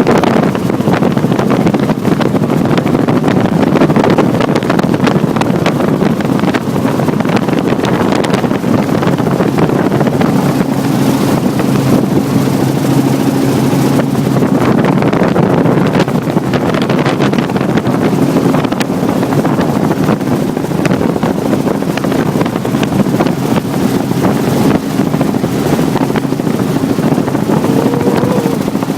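Helicopter in flight, heard from aboard: a loud, steady drone of engine and rotor with a low hum running under it.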